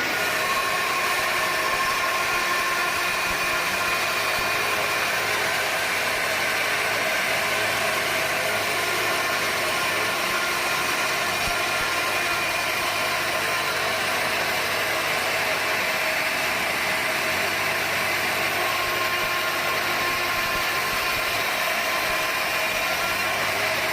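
Sawmill machinery running steadily: a constant mechanical noise with a few steady humming and whining tones and no break.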